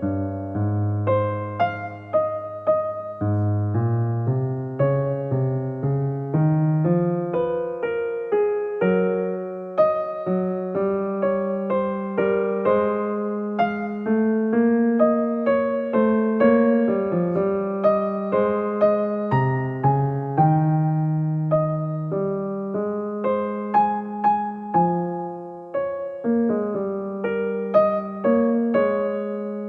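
Background music: a solo piano or electric piano playing a slow melody over held bass notes.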